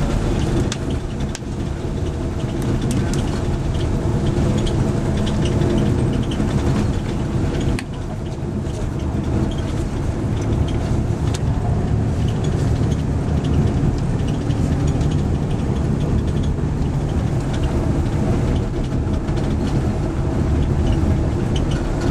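Tour coach driving, heard from inside the cabin: a steady low engine and road drone with small scattered rattles.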